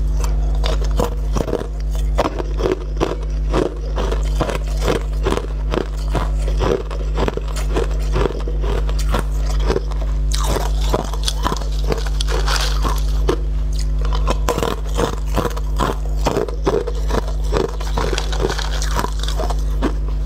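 A person biting and chewing translucent yellow candy-like cubes, with a quick run of crunching bites that grows somewhat brighter about halfway through, over a steady low hum.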